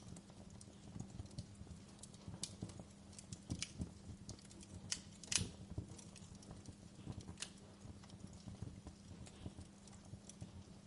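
Wood burning in a fireplace, crackling with irregular sharp pops and snaps, the loudest pop about five seconds in.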